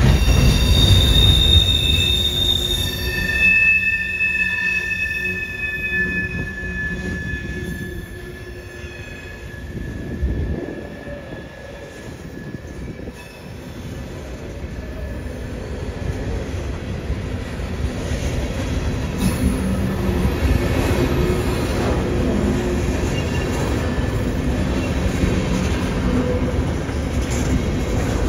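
Indiana Southern coal train's hopper cars rolling past with a steady rumble. For the first several seconds the steel wheels squeal in high, drawn-out tones at several pitches at once. The rumble fades about a third of the way in, then builds again and holds steady.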